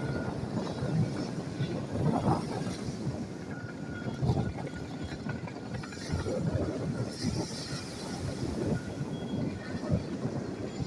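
Wind buffeting the microphone in irregular gusts over a low, steady rumble, with a faint thin tone held throughout.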